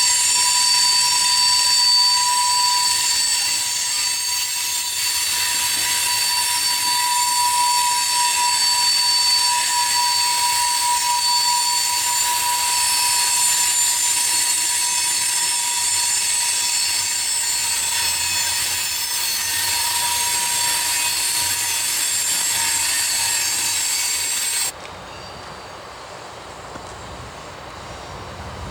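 Freight train wheels squealing against the rails as the cars roll past: several steady, high-pitched tones over a hiss. Near the end it cuts off abruptly, leaving a quieter low rumble.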